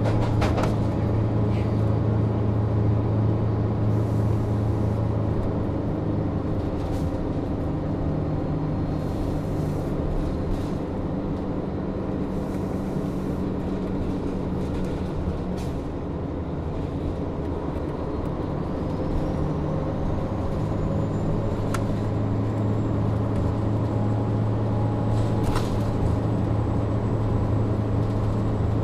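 Inside a 2002 Neoplan AN440 transit bus with a Cummins ISM diesel: a steady low drone from the engine and its cooling fan, which is stuck on and really loud. The drone eases a little in the middle and builds again, with a faint high whine rising from about two-thirds in and a few short hisses and clicks.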